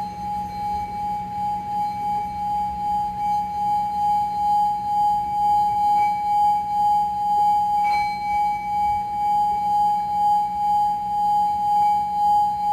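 Singing bowl ringing on one sustained tone with a slow, pulsing waver in loudness. It is lightly struck again about six seconds in and more firmly about eight seconds in, each strike briefly brightening the overtones.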